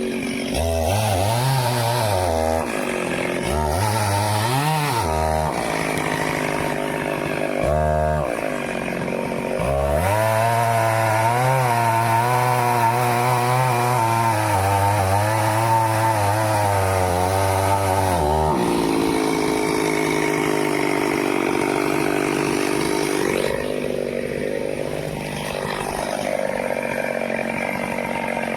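Stihl chainsaw revving in short blips, then held at full throttle for about eight seconds while cutting through teak wood, its pitch wavering under load. Near the end it drops back to a lower, rougher note.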